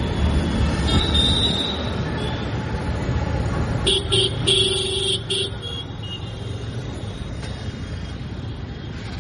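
TVS Apache RTR 180's single-cylinder engine running in city traffic, louder in the first two seconds and quieter after about six. A vehicle horn sounds in several short blasts about four to five seconds in.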